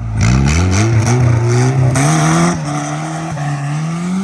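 Turbocharged B16 engine of a Honda Civic EG hatchback at full throttle through its new exhaust, revs climbing hard. About two and a half seconds in, the pitch drops at a gear change, then climbs steadily again.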